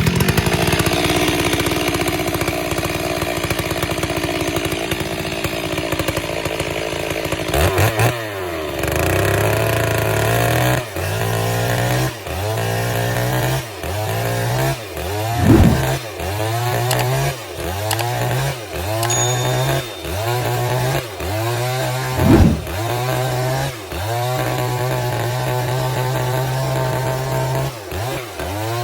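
Stihl MS 382 two-stroke chainsaw ripping a log lengthwise. For about the first eight seconds it runs steadily at high revs. Then its pitch drops under load and keeps dipping and recovering about every second and a half as the chain bites into the wood.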